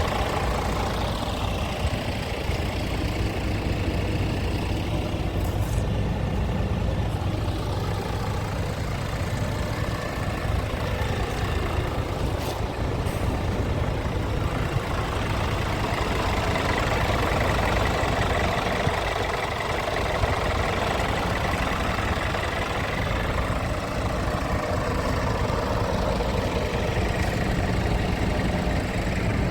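Scania R450 tractor unit's 13-litre six-cylinder diesel engine running, its pitch falling and rising several times as engine speed changes.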